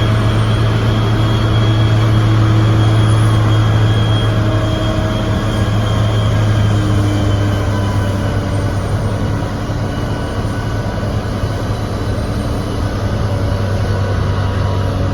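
Heavy engine of a snow-removal vehicle running steadily with a deep hum, easing off slightly about halfway through.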